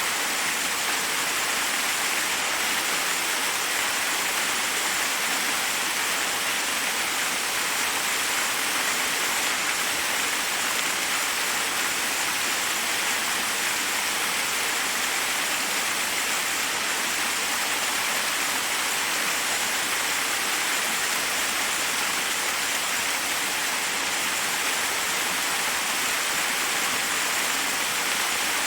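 Forest waterfall: a steady rush of falling water over rocks.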